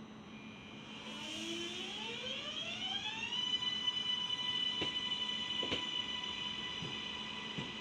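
Electric suburban train pulling away, its traction equipment whining and rising in pitch for about two seconds, then holding one steady high tone. Two sharp clicks come partway through.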